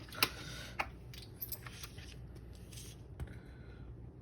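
Scratch-off lottery tickets and a coin being handled: light scattered clicks and short scrapes, with a sharp tick about a quarter second in and another just after three seconds.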